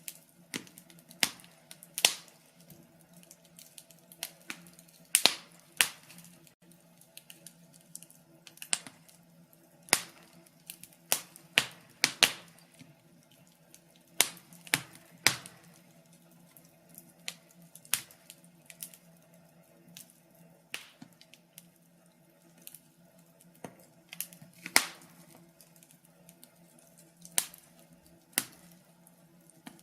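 Wood fire crackling, with irregular sharp pops and snaps at uneven intervals, some loud, over a faint steady low hum.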